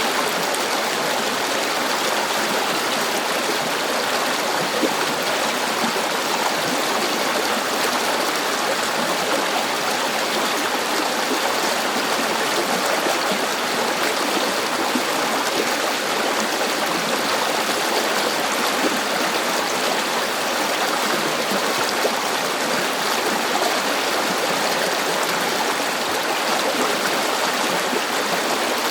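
River water flowing steadily over rocks, an unbroken rushing and babbling.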